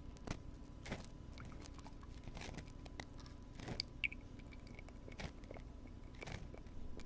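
Ear-cleaning tools worked against a binaural microphone's ear, making close-up scratchy crackles and scattered sharp clicks. A steady low hum of background noise runs underneath.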